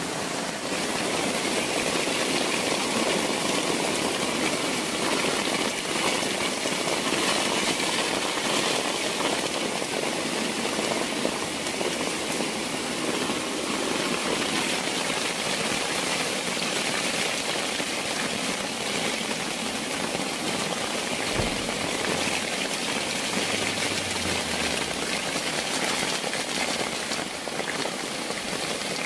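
Heavy rain falling steadily on a plastic tent shelter: a dense, even hiss with no let-up.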